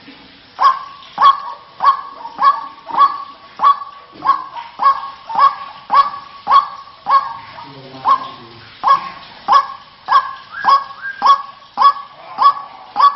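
White-breasted waterhen (ruak-ruak) calling over and over, a short harsh note repeated about every 0.6 seconds from about half a second in. It is played as a lure call, the female calling males.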